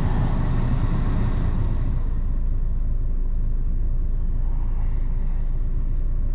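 2006 Honda Accord engine running at a steady idle with a low rumble; a brighter noise over it during the first two seconds fades away.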